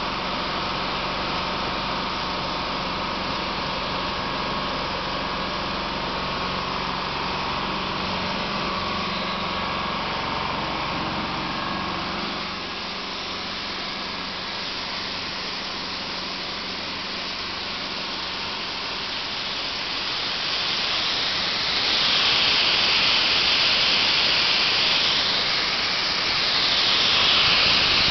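A compressor runs with a steady hum until about twelve seconds in, when the low hum drops away. In the last third a loud hiss rises and swells twice.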